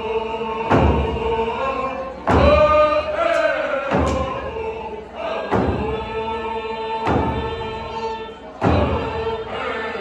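A group singing a traditional Indigenous song in unison over a slow, heavy drum beat, about one stroke every second and a half, with held notes between the strokes.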